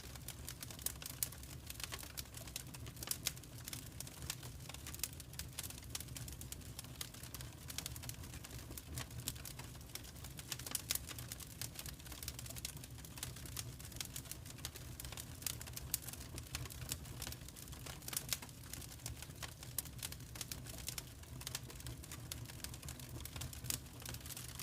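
Fire crackling in a fireplace: dense, irregular pops and snaps over a steady low rumble.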